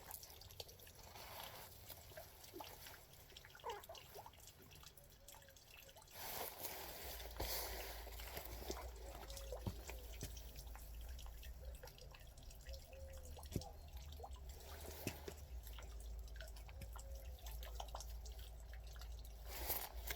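Pigeons: faint scattered clicks and taps, with a few short, soft coos.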